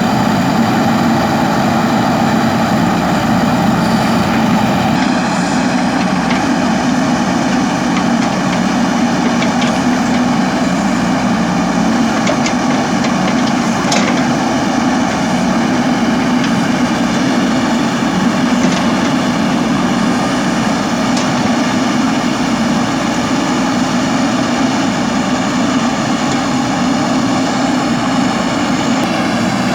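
Steady machine running: a low hum under an even high whine, with a few faint knocks.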